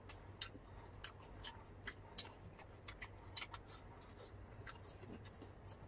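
Faint, irregular wet clicks and smacks of close-up chewing and eating by hand, a few each second, over a low steady hum.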